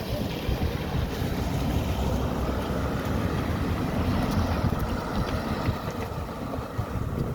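Wind buffeting the microphone: a steady low rumble outdoors.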